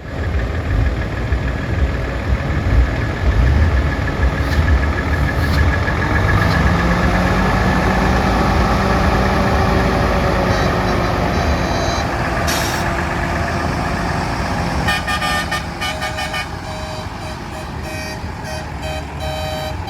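Heavy truck's diesel engine running with a deep rumble. In the last few seconds a rapid pulsing horn tone comes in.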